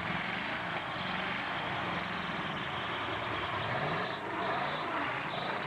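Truck engines running steadily with a dense wash of mechanical noise, the engine pitch wavering slightly.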